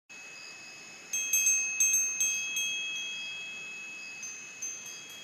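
High, bell-like chimes ringing. A steady held tone is joined about a second in by several quick strikes, and each note rings on and slowly fades.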